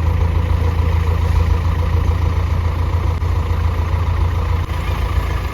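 A motor vehicle's engine running steadily with a deep, even rumble.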